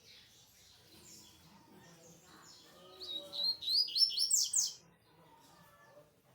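A papa-capim (coleiro) seedeater singing: faint high chirps, then, about three seconds in, one loud, rapid phrase of high, quickly repeated up-sweeping notes lasting under two seconds.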